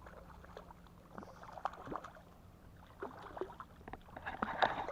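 Small irregular knocks and water splashing against a small boat, with a louder cluster near the end.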